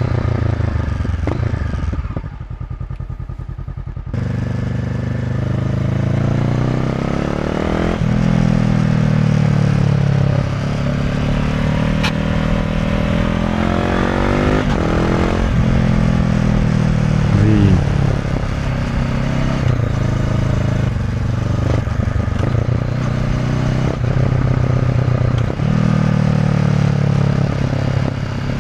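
Honda CB500F's 471 cc parallel-twin engine through an SC Project Conic titanium slip-on exhaust, under way: the engine note climbs under throttle and drops back at each of several upshifts. For about two seconds near the start the throttle is closed and the note sits low and quieter.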